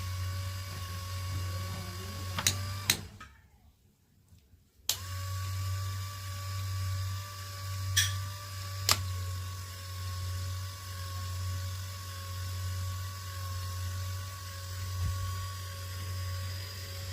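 Steady electrical mains hum, switched off with a click about three seconds in and back on with a click about two seconds later. A few more sharp clicks follow.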